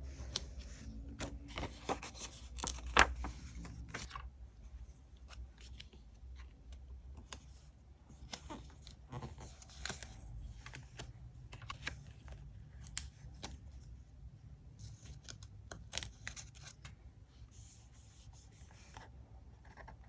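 Paper and stationery being handled while decorating a diary: scattered rustles and sharp little clicks and taps, with the loudest click about three seconds in.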